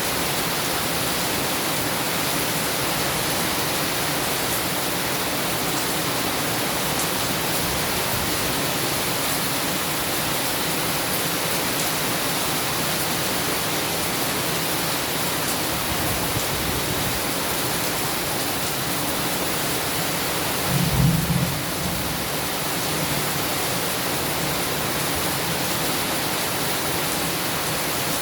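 Heavy rain falling in a steady hiss, with a brief low rumble of thunder about three quarters of the way through.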